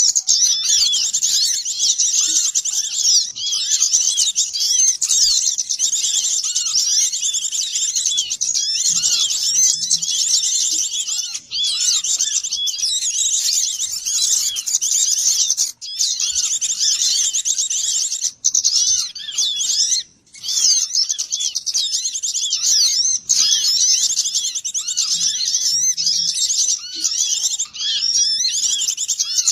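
A dense chorus of small songbirds, many high-pitched chirps and twitters overlapping without pause, from a recording made to lure small birds in. The chorus drops out briefly a few times.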